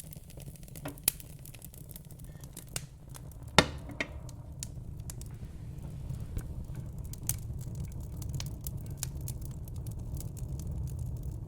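Wood fire in a fire pit crackling, with irregular sharp pops and one loud pop about three and a half seconds in, over a steady low rumble.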